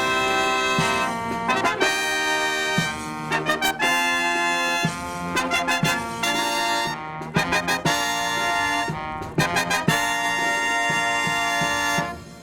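Marching brass band with drums playing a fanfare: trumpets and trombones in held chords broken by quick repeated-note figures, with drum strokes. A final held chord cuts off near the end.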